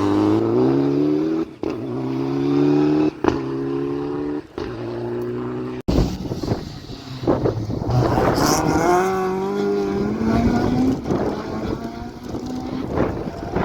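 Rally car engine accelerating hard through several quick upshifts, each rise in pitch dropping back at the gear change. Then an engine climbs slowly and steadily in pitch under load.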